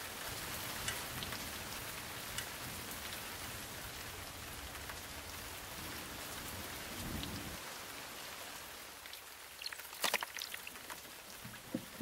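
Steady rain falling, with a brief low rumble about seven seconds in and a quick cluster of sharp drop hits near the end.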